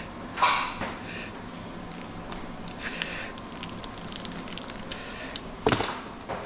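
Scattered clicks and clacks of scrap metal and wire being handled and cut, with two louder knocks: one about half a second in and one near the end.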